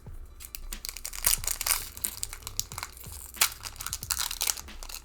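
Foil Pokémon booster pack wrapper crinkling and trading cards being handled, a quick, uneven run of small crackles and rustles.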